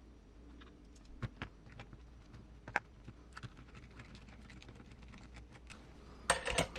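Scattered light clicks and taps of small hand tools and metal parts being handled while working on an RC crawler, with a louder little clatter about six seconds in.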